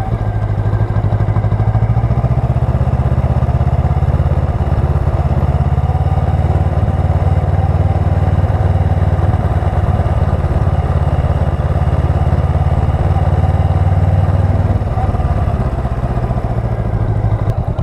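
Honda Rebel 500's parallel-twin engine running steadily with a deep, even exhaust note, easing off slightly near the end.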